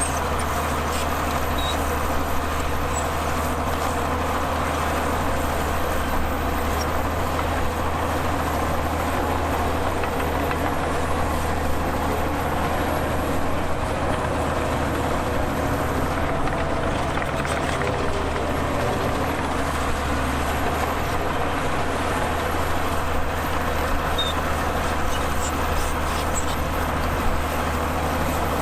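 Heavy diesel engine of earth-moving machinery running steadily: an even, deep drone that hardly changes in pitch or loudness.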